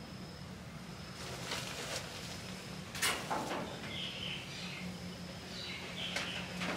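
Birds chirping now and then over a steady low hum, with a few short sharp knocks or rustles; the loudest comes about three seconds in.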